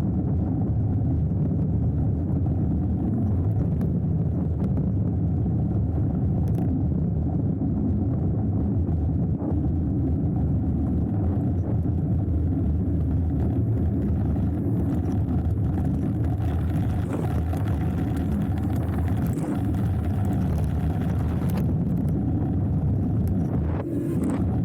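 Steady low rumble of wind buffeting the camera microphone and knobby tyres rolling over the trail on a hardtail mountain bike descent, with a few faint clicks and rattles from the bike.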